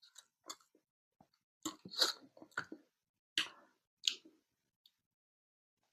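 A person chewing food close to the microphone: short, irregular clicking mouth sounds in small clusters, busiest about two seconds in.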